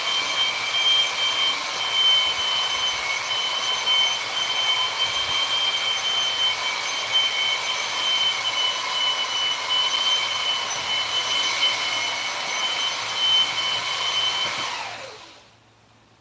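A high-speed electric power tool running at a steady whine, then switched off near the end and winding down to a stop.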